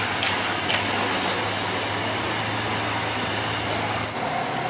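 Sports car engine running steadily over outdoor street noise, a low even hum. About four seconds in the sound shifts abruptly and a new, higher steady hum comes in.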